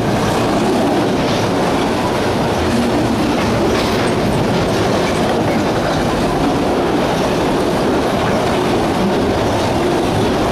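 CSX freight train of enclosed autorack cars rolling steadily past close by: a continuous rumble and rattle of steel wheels on rail, with a few faint clicks.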